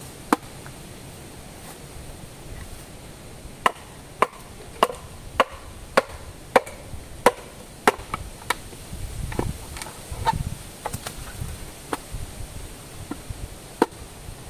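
Wood being chopped with a blade: a single blow, then a steady run of about nine strokes a little under two a second, and two scattered blows near the end. A low rustling rumble comes partway through.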